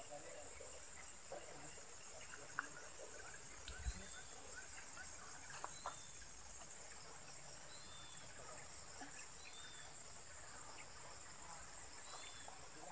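A steady, high-pitched insect chorus trilling with a fast pulse, with a few faint short bird chirps over it.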